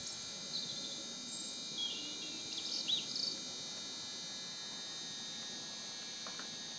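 Small birds chirping in short high calls several times during the first half, over a steady background hum.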